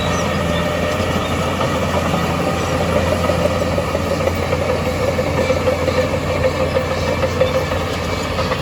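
Diesel engine of heavy earthmoving equipment running steadily, a little louder and more uneven in the middle.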